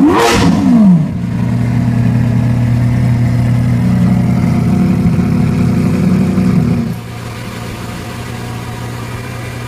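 Lamborghini Aventador Roadster's 6.5-litre V12 blipped once, the revs peaking with a sharp pop near the start and falling back within about a second. It then runs at a steady raised idle, which drops to a lower, quieter idle about seven seconds in.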